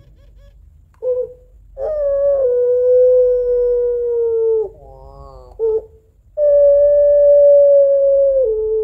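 Female puter pelung dove (a long-voiced Barbary dove breed) giving long crying calls to call a male. A short note comes first, then two long held notes that each drop slightly in pitch near their end, with a short wavering note between them.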